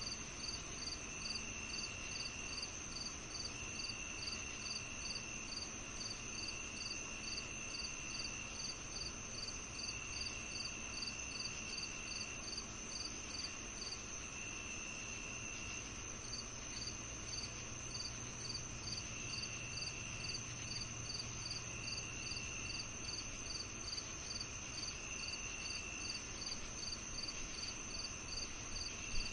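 Crickets and other insects in a summer-evening chorus: a continuous high trill, with a steady run of short chirps at about two to three a second that pauses briefly about halfway, and lower trills of a second or two coming and going every few seconds.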